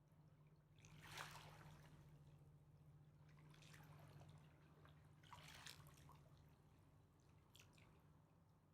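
Faint lapping of Mississippi River water at the bank: soft splashes every couple of seconds, over a low steady hum.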